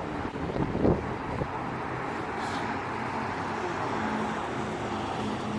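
Steady outdoor engine rumble, with a brief low thump about a second in and a steady hum coming in about four seconds in.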